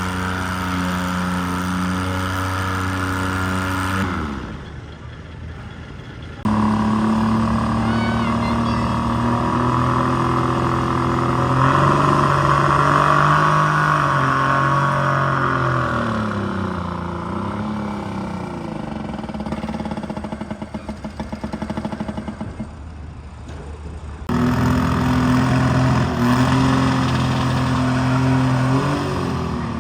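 Pulling garden tractor's engine running at high, steady revs, its pitch sagging and wavering partway through as it labours under the sled's load. The engine sound breaks off abruptly twice and comes back.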